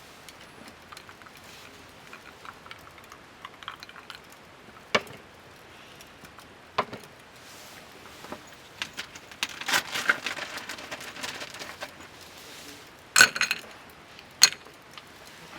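Small hard objects being handled: scattered clicks, knocks and light clinks, with a busier stretch of rustling and clinking about ten seconds in.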